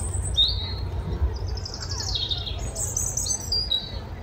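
A bird chirping: a run of high, quickly falling chirps, over a steady low rumble.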